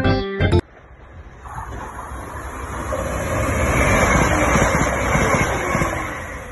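Brief background music cuts off, then a Class 170 Turbostar diesel multiple unit runs through the station without stopping. The rush of its wheels and engines builds to a peak about four seconds in and fades as it moves away.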